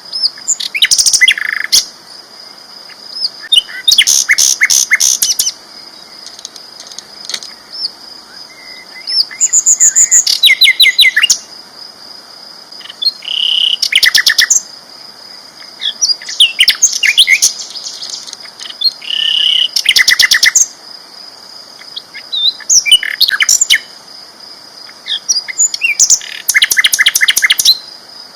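Sikatan londo flycatcher singing loud, rapid phrases of fast repeated high notes and trills, a new phrase every few seconds. A steady high whine runs underneath.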